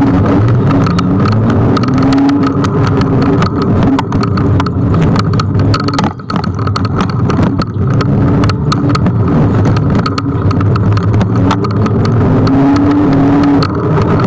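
Riding noise from a Kugoo G1 electric scooter on the road: loud wind buffeting and road rumble with many small knocks. A motor tone rises in pitch and levels off twice, as the scooter speeds up.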